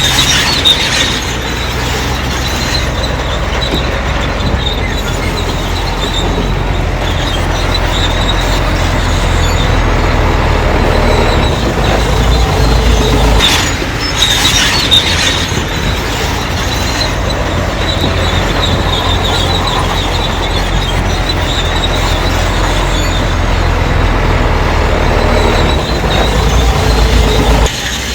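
Crawler bulldozer working under steady engine load, its steel tracks squealing, with a brief louder scrape about halfway through.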